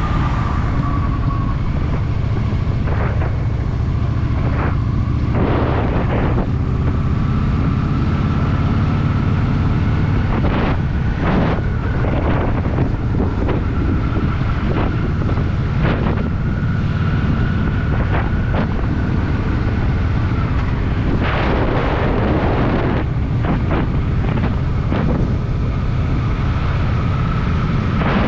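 Honda Shadow VT750's V-twin engine running steadily under way, with heavy wind noise buffeting the camera microphone in repeated gusts.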